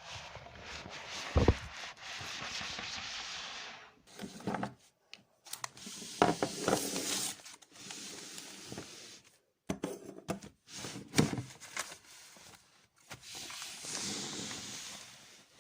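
Close-miked ASMR trigger sounds: stretches of scratching and rubbing, broken by a few sharp taps and short pauses.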